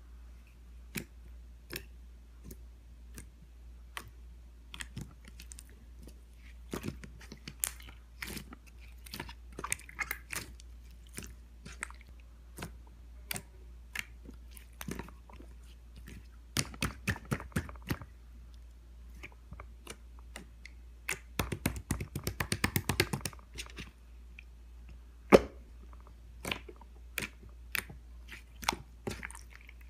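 Clear slime being squeezed and poked by hand, making irregular sharp clicks and pops, with quick runs of clicks about 17 and 22 seconds in and one loud pop about 25 seconds in.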